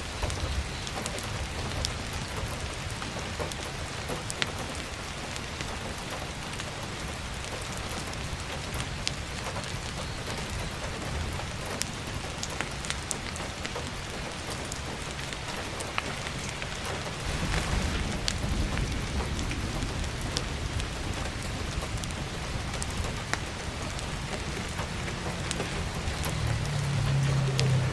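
Heavy rain falling steadily on a roof skylight, with scattered sharp crackles from burning firewood. A low rumble swells about two-thirds of the way through and again near the end.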